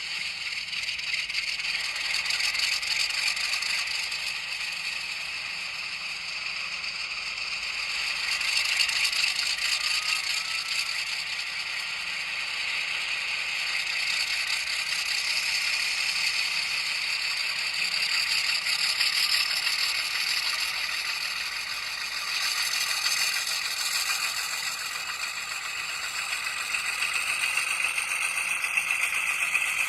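N scale model train of an 80 Class diesel locomotive hauling a long rake of coal hopper wagons, the wagons rattling steadily over the track. The rattle swells and eases every few seconds.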